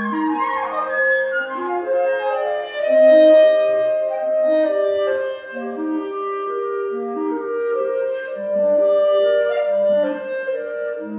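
A woodwind trio of flute and two clarinets playing classical chamber music: clarinets moving in short notes below a higher held melody line, with a louder sustained note about three seconds in.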